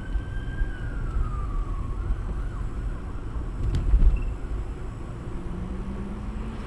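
Siren wailing, its pitch rising slowly and then falling once, over steady low vehicle and road rumble. A single heavy thump comes about four seconds in.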